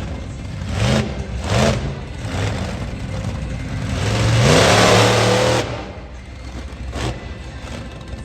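Monster truck engine revving: two short blips about a second and a second and a half in, then a longer rev that climbs and holds high for over a second before dropping back to a lower run.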